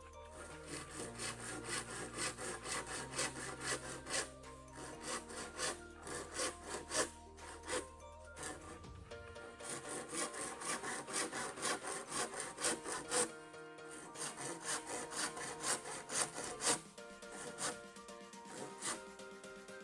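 Hand saw cutting through a bamboo pole in steady back-and-forth strokes, about two to three a second, with two brief pauses and fewer, lighter strokes near the end.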